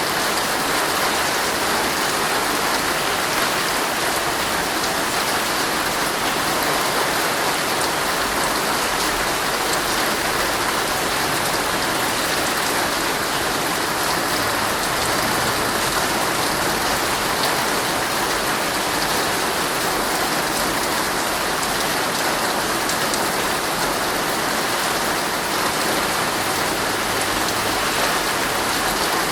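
Heavy rain drumming steadily on a tent's fabric, a dense, even patter of drops.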